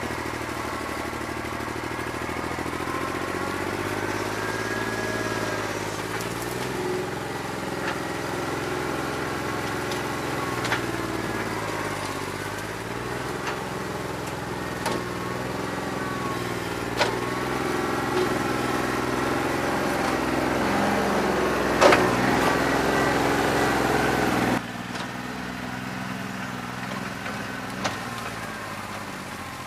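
New Holland 1320 compact tractor's three-cylinder diesel running with a bad injector, its note wavering up and down as the loader hydraulics take and release load, with a few sharp clanks. Near the end the engine sound drops suddenly to a quieter, lower running.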